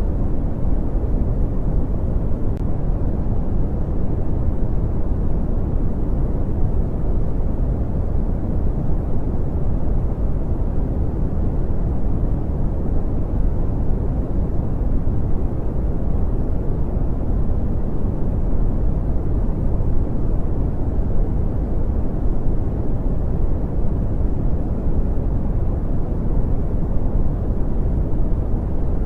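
Brown noise: a steady, deep rumbling hiss, strongest in the bass and fading toward the treble, with no change throughout.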